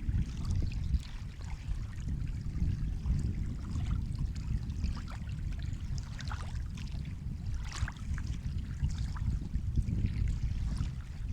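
Sea waves washing, a steady low rumble of surf with many small crackles and trickles of water over it.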